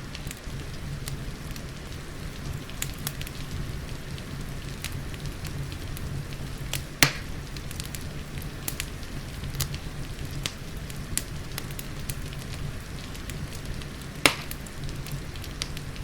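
Fireplace crackling with scattered small clicks and two loud pops, one about halfway through and one near the end, over the steady hiss of falling rain and a low rumble.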